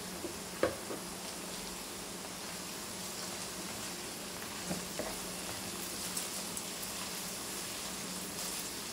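Chopped okra and garlic frying in hot oil, a steady sizzle, with a few light knocks of a plastic spatula as it is stirred.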